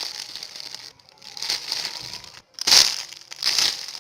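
Crinkling, rustling handling noise as a squishy toy is turned and squeezed in the hands close to the microphone, in several short bursts with the loudest a little past the middle.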